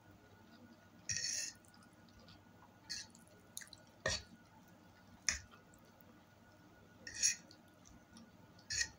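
Close-miked eating sounds: a person chewing spaghetti, with about six short, wet mouth smacks and clicks spread through the quiet, two of them sharp.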